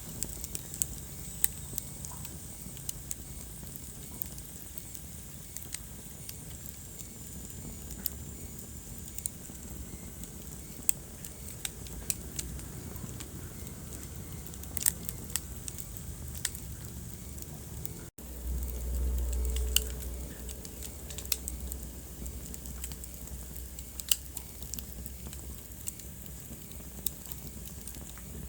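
Wood fire crackling, with irregular sharp pops over a low, steady rumble of flames. About two-thirds of the way in the sound drops out for an instant, then the rumble is louder for about two seconds.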